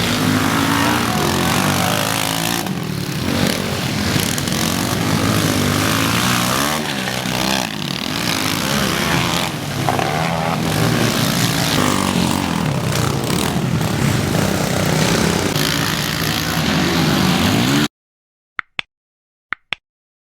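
Pit bike engines revving, their pitch rising and falling as the throttles open and close. The sound cuts off suddenly near the end, leaving a few faint clicks.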